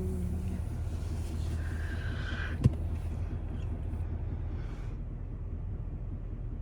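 Truck engine idling steadily, a low hum heard from inside the cab, with a single sharp click a little under three seconds in.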